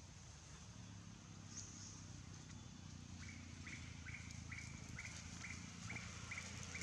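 Faint outdoor ambience with a steady low rumble and a thin high hiss. From about three seconds in, a bird repeats a short note about twice a second.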